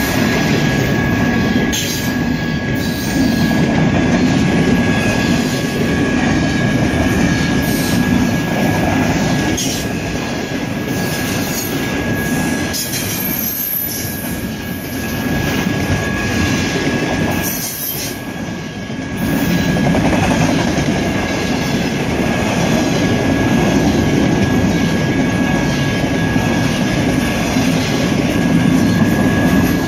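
Double-stack container train rolling past at speed: a steady rumble of wheels on rail with scattered clicks and a thin, steady high squeal. The sound dips briefly twice near the middle.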